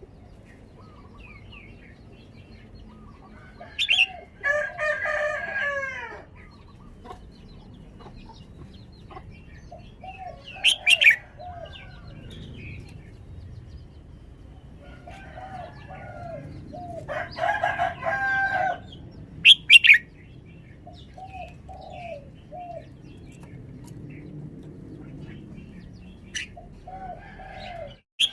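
Red-whiskered bulbul singing: short, loud, high phrases a few times, several seconds apart, with small repeated lower notes between. Twice there is a longer, lower call, each lasting a second or two.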